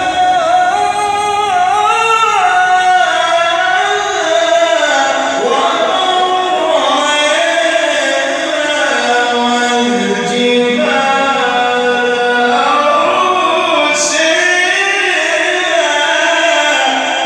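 A man reciting the Quran in the melodic mujawwad style, drawing out long ornamented notes that rise and fall in pitch.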